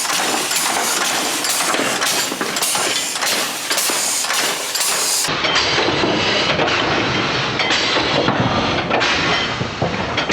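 Home-built air-powered narrow-gauge locomotive running on rails: a steady, dense hiss and rattle. The sound changes about five seconds in and becomes fuller in the low end.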